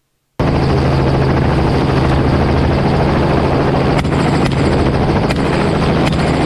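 Loud, steady helicopter noise heard close in the open air: the rotor's low pulsing thump under the engine and wind rush. It cuts in abruptly just after the start, with a few faint sharp ticks over it in the second half.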